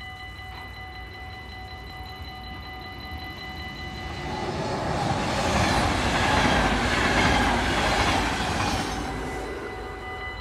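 Level-crossing warning bell ringing steadily while an NS double-deck passenger train runs through the crossing. The train's rumble and wheel noise swell from about four seconds in, drown the bell at their loudest in the middle, and fade a second or so before the end.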